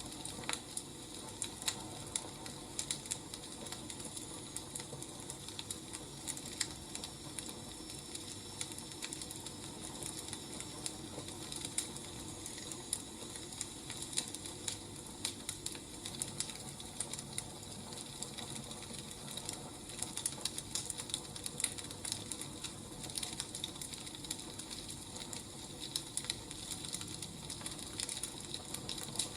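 Wood fire crackling: irregular snaps and pops over a steady low hiss.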